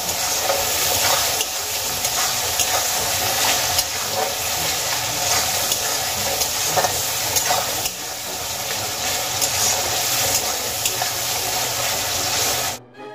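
Chopped tomatoes, onions and green chillies sizzling in oil in a metal kadai, with a metal spatula scraping and tapping against the pan as it stirs. The frying sound cuts off suddenly just before the end.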